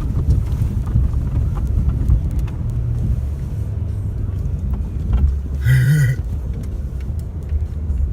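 Snow-plowing vehicle's engine running with a steady low rumble. About six seconds in there is a brief high-pitched sound over it.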